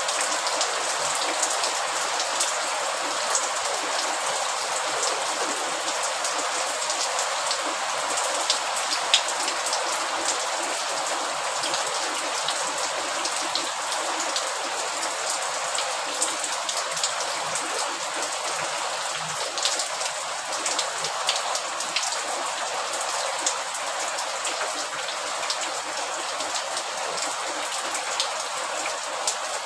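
Steady rainfall, an even hiss with many single drops striking sharply on top.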